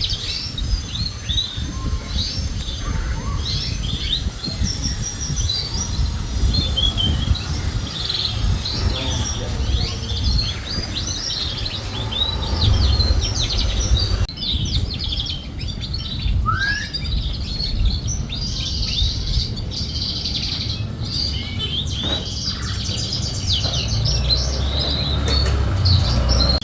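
Canary song: rapid chirps and trills running almost without a break, with a low rumble underneath. The sound changes in texture about halfway through.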